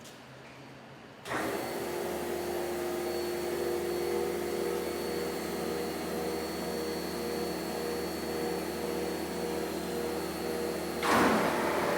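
A workshop machine runs steadily with a constant hum and whine, starting suddenly about a second in.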